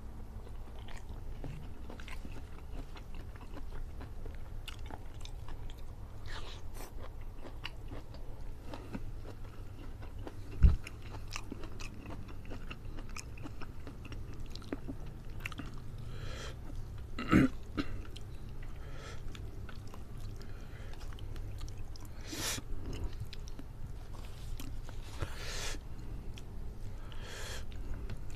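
A man chewing and eating rice and curried chicken by hand, close to the microphone, with many short mouth clicks over a steady low hum. Two louder knocks stand out, about 11 and 17 seconds in.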